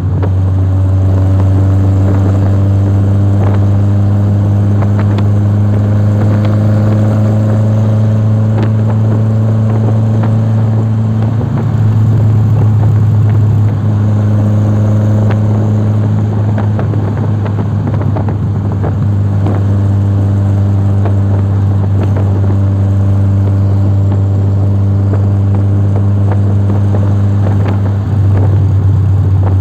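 A vehicle engine running steadily with a deep, constant drone. Fainter overtones above it drift slowly in pitch.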